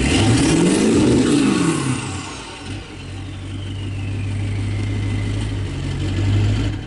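Ford 7.3 Powerstroke turbo-diesel V8 running through a 4-inch turbo-back exhaust on a cold start: revved once about a second in, a high turbo whistle falling away over the next few seconds, then steady high idle. The sound cuts off suddenly at the end.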